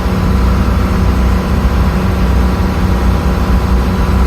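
Volvo Penta marine diesel (a TMD50 running as an MD50 with its faulty turbocharger removed) running steadily under way at about 900 RPM.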